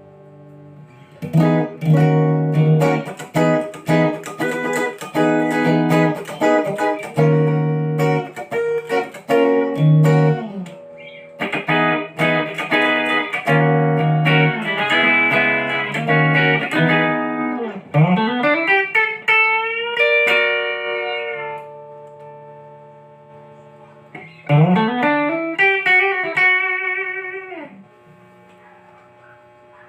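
Ibanez GIO electric guitar with HSH pickups playing fast runs of single notes. Later come two phrases where notes glide up in pitch into held, ringing notes, about 18 and 25 seconds in.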